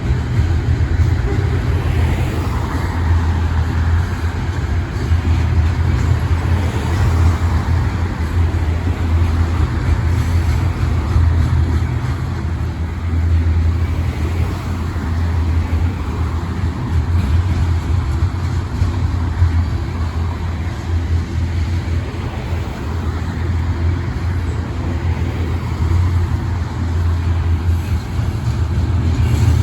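Long Iowa Interstate freight train passing, a loud steady low rumble with a rushing noise over it.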